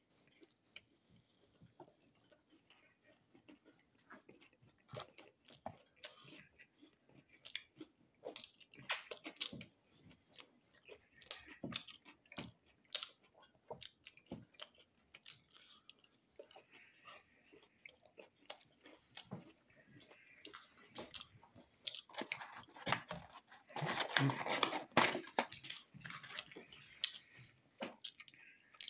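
A man chewing sauced boneless chicken wings close to the microphone, with scattered wet mouth smacks and sharp clicks. The eating gets busier about two-thirds of the way in.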